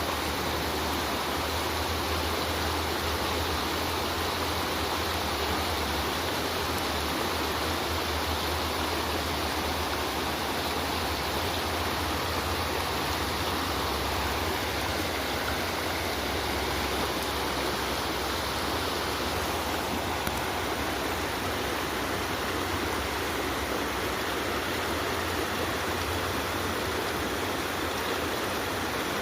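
Running water rushing steadily, like a fast stream or river.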